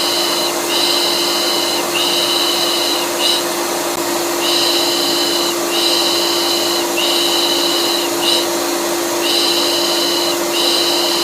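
Vacuum cleaner running steadily with a constant hum, overlaid by rhythmic 'pış pış' shushing as used to soothe a colicky baby: three long shushes and a short one, repeating about every five seconds.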